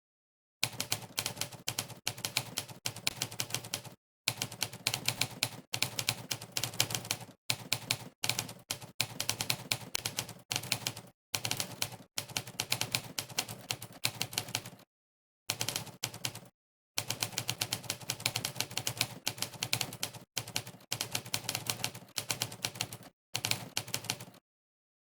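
Monkeytype's sampled typewriter keystroke sound, one sharp clack per keypress in fast typing. It comes in rapid runs broken by short gaps of complete silence, starting about half a second in and stopping just before the end.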